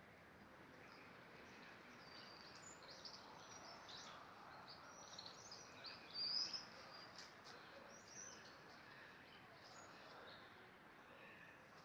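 Small birds chirping faintly, a scatter of short high chirps and twitters, loudest about six seconds in, over a steady background hiss.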